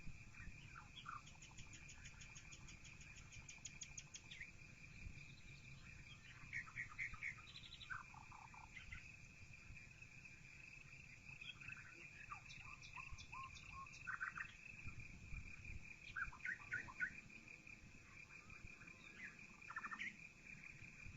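Several songbirds chirping and singing faintly, heard through a partly open window: scattered short chirps, a quick rattling trill at about two to four seconds, and repeated notes. Underneath is a steady high-pitched tone and a low rumble.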